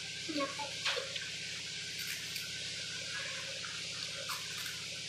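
Faint crunching clicks from a wafer stick being bitten and chewed, a few scattered snaps over a steady background hiss and hum.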